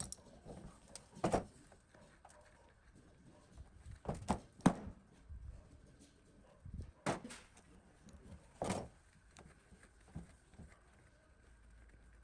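Several separate knocks and clunks, one or two seconds apart, with two in quick succession about four seconds in, over a faint steady hum.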